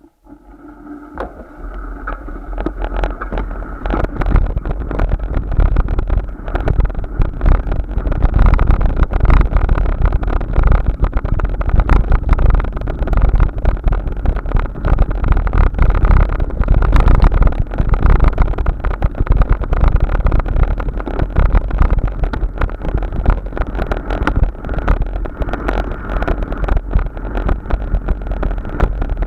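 Wind buffeting the microphone of a moving bike, rising over the first several seconds as speed builds and then staying loud and gusty. A steady hum runs underneath.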